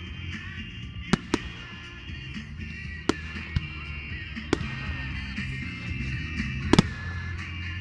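Firework bangs: about six sharp cracks spread over several seconds, the loudest near the end, over background music.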